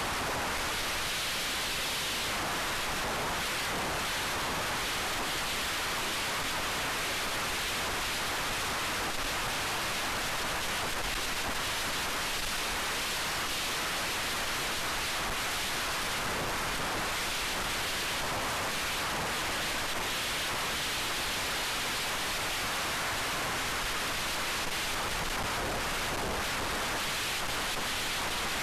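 Steady rushing wind noise from airflow over the onboard camera microphone of an FPV racing wing in high-speed flight, swelling and easing slightly without a break.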